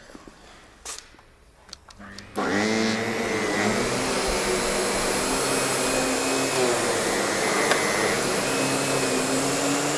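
Upright vacuum cleaner switched on a little over two seconds in, after a few faint clicks. The motor spins up with a rising whine, then runs steadily with an airy rush of suction and a thin high whistle.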